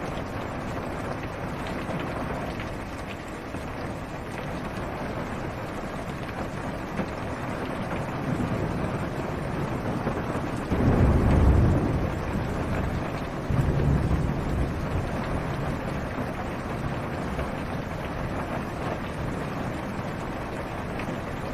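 Steady rain falling on a car's roof and windshield, heard from inside the car. A low rumble of thunder swells about eleven seconds in, followed a couple of seconds later by a second, weaker rumble.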